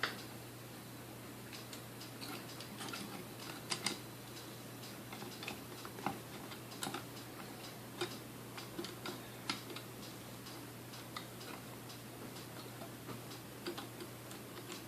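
Scattered light clicks and taps of small parts and tools being handled during reassembly of a vintage stand mixer, irregular and a few per second at most, over a faint steady hum.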